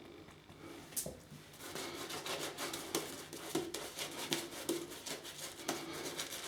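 Shaving brush (a Wolf Whiskers brush) working wet menthol shaving cream into a lather: faint, quiet swishing and crackling bristle strokes with small clicks, repeating in quick succession from about a second in.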